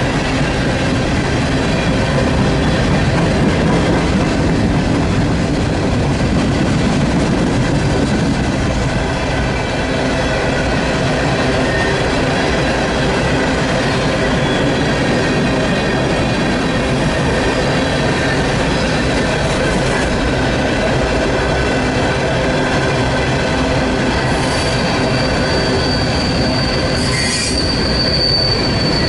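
A train's cars rolling steadily past, steel wheels running on the rails with a loud, even rumble. Near the end a high, thin wheel squeal sets in and holds.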